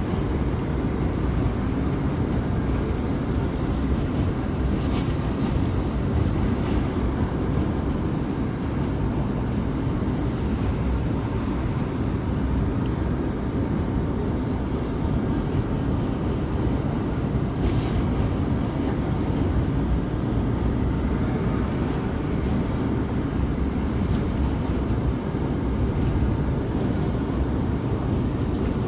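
R179 subway car running at speed, heard from inside: a steady low rumble of wheels on rail, with a few faint clicks.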